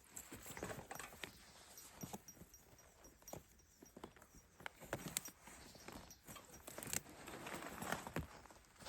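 Footsteps on the ground outdoors, an irregular series of crunching steps and knocks with rustling between them.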